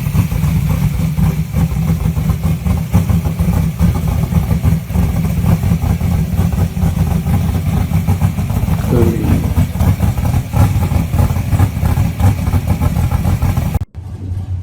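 A 572 cubic-inch big-block V8 in a muscle car running loud and steady at idle, its exhaust pulsing fast. Near the end it cuts off abruptly and is replaced by a quieter engine.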